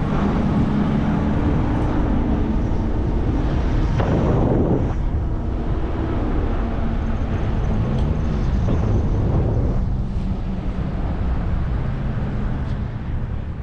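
Riding noise from a fat-tire electric bike: a steady low hum of tyres and motor with wind rushing over the microphone. The hum's pitch shifts up and down about two-thirds of the way through, and a louder gust comes about four seconds in.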